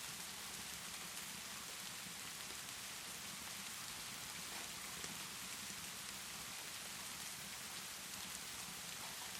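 Steady rainfall, an even hiss, with scattered faint sharp ticks from a crackling fireplace.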